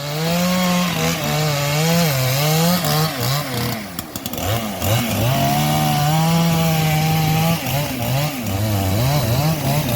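Husqvarna chainsaw cutting through sengon wood under load, engine speed sagging and recovering as the chain bites, with a brief drop around four seconds in before it settles to a steady cut.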